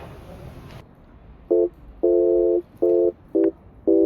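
A horn-like chord of several steady notes sounded in a rhythm of short and long blasts, starting about one and a half seconds in.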